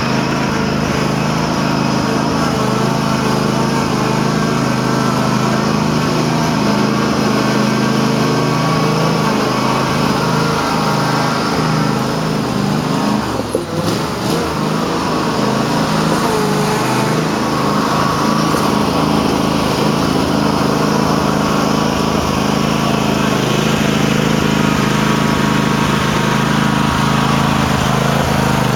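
Cub Cadet tractor engine running steadily, with a brief dip in its note about halfway through. The owner says the tractor is running badly and does not know why.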